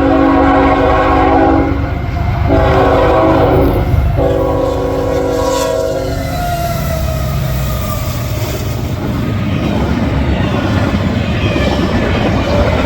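Freight locomotive air horn sounding three blasts, the last the longest, followed by the train passing with a steady rumble and clatter of wheels on the rails.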